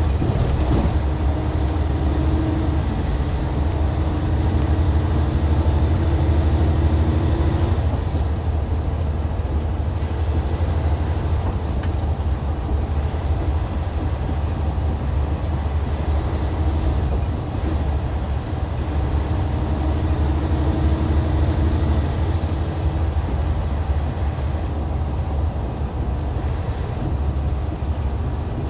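2014 Hyundai Universe Comfort coach's Hyundai D6CC Powertec 380 six-cylinder diesel running steadily as a deep, even drone. A humming tone rides over it for the first several seconds, fades about eight seconds in, and comes back for a few seconds past the middle.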